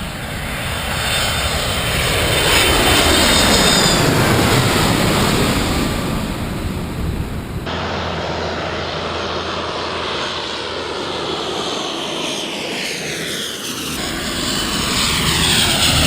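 Airliners passing overhead, the engine roar swelling and then falling in pitch as each one goes by. The sound breaks off abruptly twice, about eight and fourteen seconds in, with a new pass starting each time.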